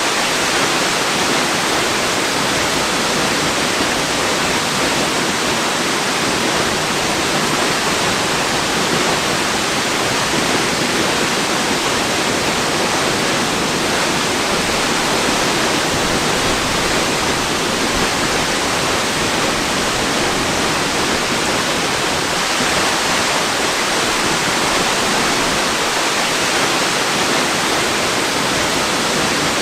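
Waterfall: water falling and splashing in a steady, even rush that never lets up.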